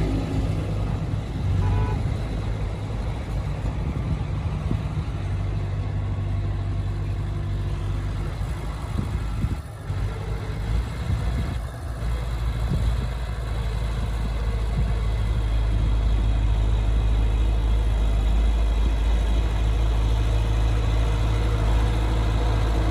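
Heavy diesel engine of earthmoving machinery running with a steady low rumble. It dips briefly about ten and twelve seconds in, then runs louder and steadier from about fourteen seconds in.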